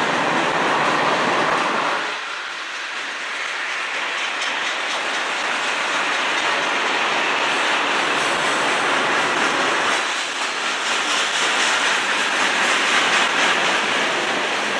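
Freight train cars, tank cars then covered hoppers, rolling past with a steady rumble and hiss of steel wheels on rail. A repeating clatter comes from the wheels passing over rail joints, and the noise dips briefly about two seconds in.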